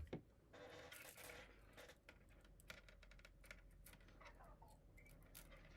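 Faint, irregular light clicks and rustles of stiff plastic 3D-printer filament being handled and pulled loose from a tangled coil.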